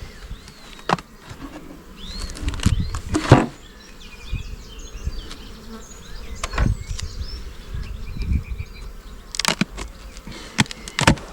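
Honey bees buzzing around an open hive, with several sharp knocks and clicks as the hive is worked.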